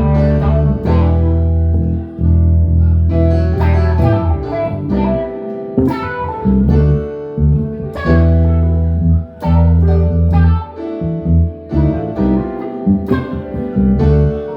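Instrumental jam with plucked guitar notes over deep sustained bass notes.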